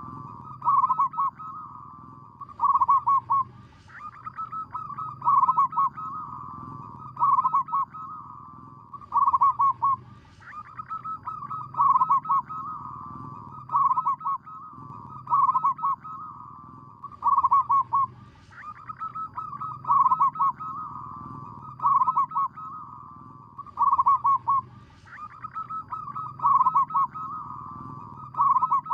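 Zebra dove (merbok, perkutut) cooing: bursts of staccato cooing notes every second or two, each group of coos opening with a short crackly stutter that comes round every six or seven seconds, over a steady low hum.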